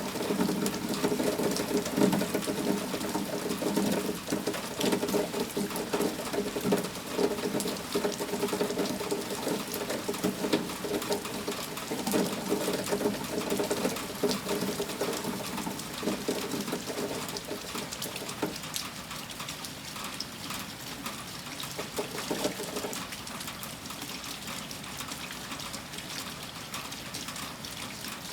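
Heavy rain falling as a dense patter of drops, with a fuller splashing layer underneath that eases off about two-thirds of the way through, leaving lighter, steadier rain.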